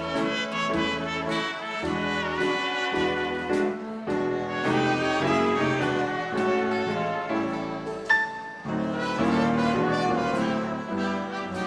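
Big band playing a 1930s-style dance number: trumpets and trombones with saxophones over a low bass line, with a sharp loud hit about eight seconds in.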